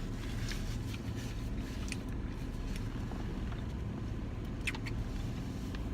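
Steady low hum of a car's idling engine and heater fan heard inside the cabin, with a few faint light clicks and taps.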